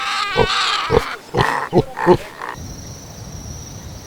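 Pigs grunting in short repeated grunts, with a wavering squeal in the first second; after about two and a half seconds they stop and only quieter background with a faint steady high tone remains.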